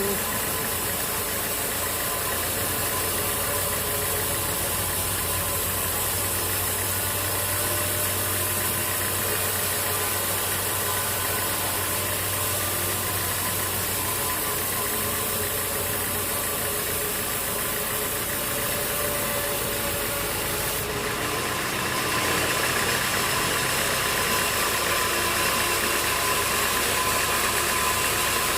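Sawmill machinery running steadily, an engine-driven hum with a rattle; it gets a little louder about two-thirds of the way through.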